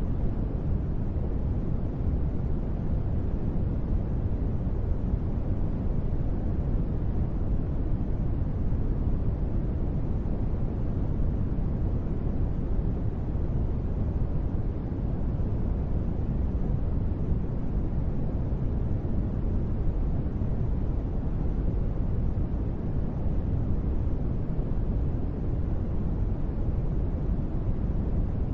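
Steady, unbroken deep noise from a sleep-sound track billed as gentle rain white noise. It is weighted to the bass and has almost no high hiss.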